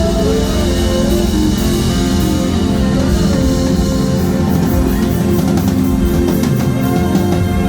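Live band playing an instrumental passage, with guitar and drums and sustained chords.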